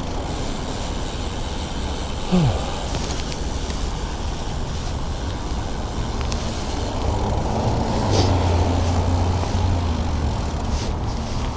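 Traffic heard from a bicycle-mounted camera while riding: a steady rumble of wind and road noise. A short tone drops sharply in pitch about two seconds in, and a vehicle's low engine hum swells and holds for a couple of seconds around eight seconds in.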